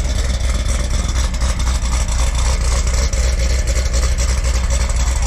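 A vehicle engine running steadily, with a strong low rumble and no clear revving.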